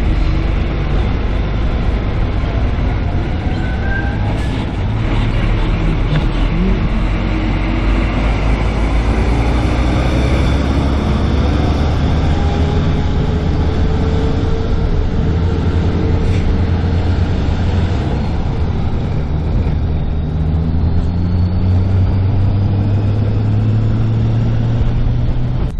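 Car engine and road noise heard from inside a moving car: a steady low rumble with tyre noise and engine pitch that rises and falls slowly with speed.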